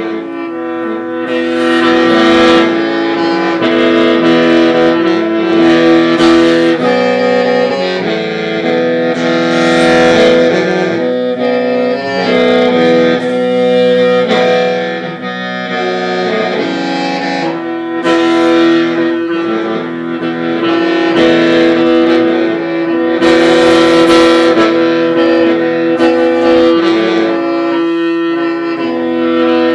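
Hmong qeej, a bamboo free-reed mouth organ, playing a melody of shifting notes over a steady drone, with several reed pipes sounding together in held chords.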